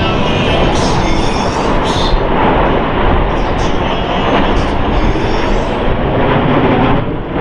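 Boeing F/A-18E/F Super Hornet jets of the Blue Angels flying by: the twin-turbofan engines make a loud, steady roar of jet noise, easing off slightly near the end.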